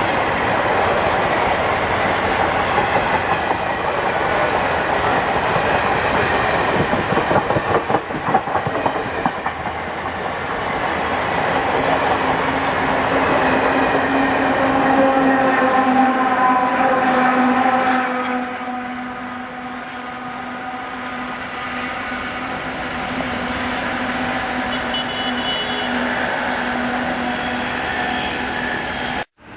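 Indian Railways train passing: wheels clattering over the rail joints, with a set of steady tones in the middle, then a lower steady rumble that cuts off abruptly near the end.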